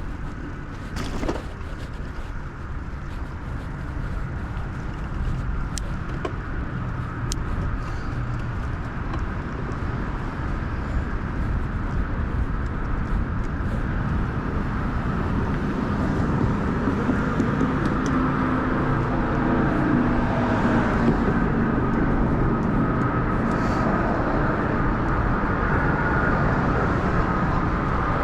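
Wind and road rumble from riding a bicycle along a street, with a few light clicks early on. A motor vehicle's engine grows louder through the second half.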